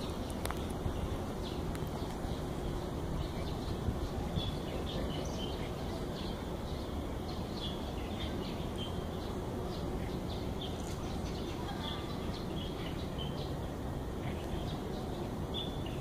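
Small birds chirping on and off in short high calls over a steady low background rumble.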